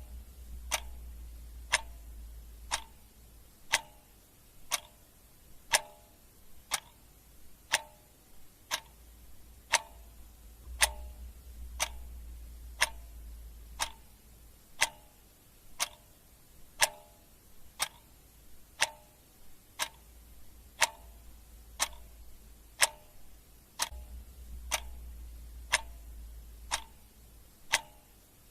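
Clock ticking steadily at about one tick a second, the ticks alternating slightly in tone like a tick-tock. A faint low hum comes and goes underneath.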